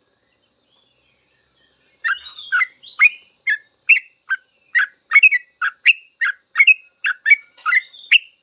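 Yellow-vented bulbul (trucukan) singing a fast run of short, chirpy notes, about three a second, starting about two seconds in after a pause.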